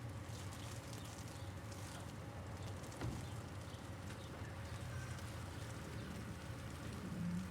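City traffic ambience: a steady low rumble of traffic with light hail ticking scattered over it, a single sharp knock about three seconds in, and a brief low hum near the end.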